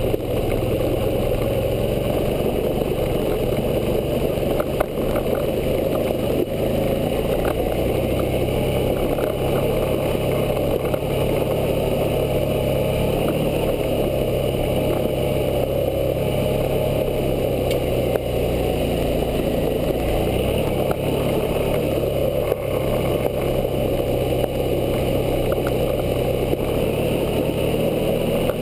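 Suzuki V-Strom 650's V-twin engine running steadily as the motorcycle rides along a dirt trail, with a steady rushing noise over it.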